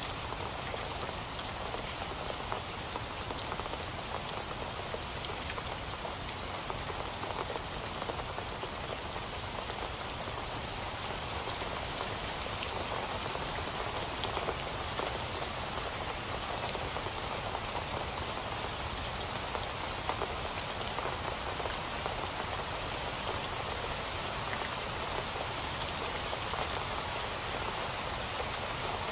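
Steady rain falling on a surface, an even hiss thick with fine drop patter.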